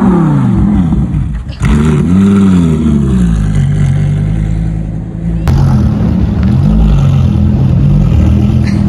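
A car engine being revved in repeated blips, its pitch climbing and falling each time, with abrupt breaks in the sound about a second and a half in and after about five seconds.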